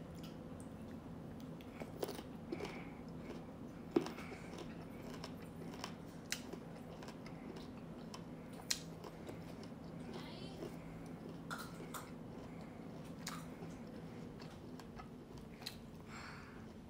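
Crisp green mango slices being bitten and chewed, with scattered soft crunches and mouth clicks over a steady low hum.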